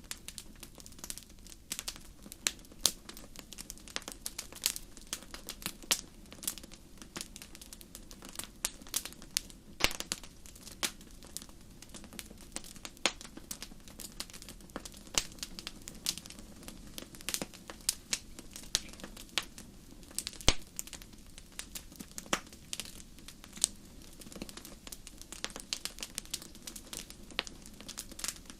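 Wood campfire crackling: irregular sharp pops and snaps, several a second, over a soft steady low rush of the burning fire.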